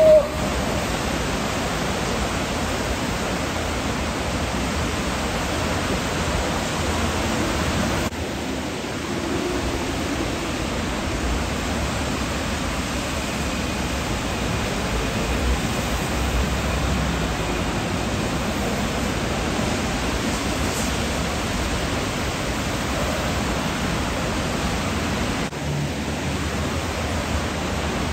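Steady rainfall, an even hiss that holds throughout, with two brief dips in level.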